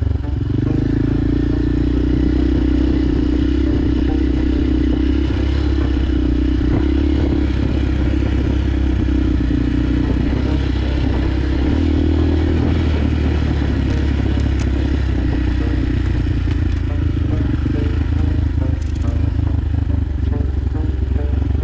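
Motorcycle engine running steadily while the bike is ridden, a continuous low drone.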